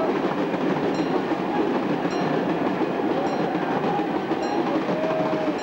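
Passenger coaches rolling past close by, a steady loud rumble and clatter of wheels on the rails with faint wheel squeals. A short high ring repeats about once a second.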